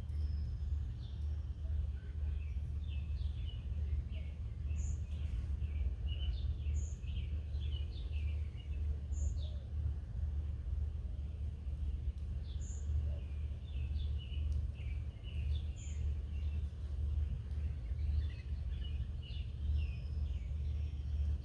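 Small wild birds chirping in quick, short notes again and again, over a steady low background rumble.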